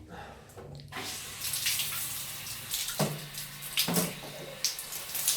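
Water running from a tap, starting about a second in and splashing steadily, with two short louder sounds about three and four seconds in.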